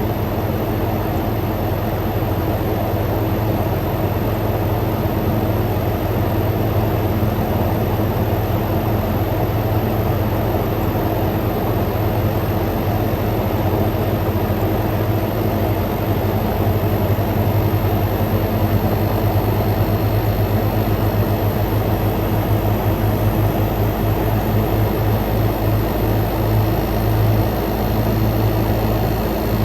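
Frigidaire Gallery GHWQ103WC1 10,000 BTU dual-inverter window air conditioner running: a steady compressor hum under the rush of the fans. It grows slightly louder as the inverter compressor and condenser fan ramp up toward full power.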